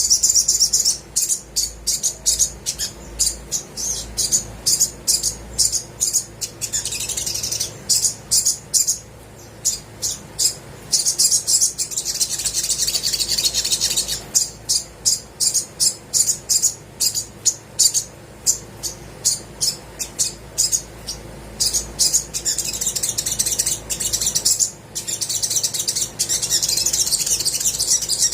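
Olive-backed sunbird calling energetically: rapid, high-pitched chips in quick runs, broken by stretches of continuous trilling song.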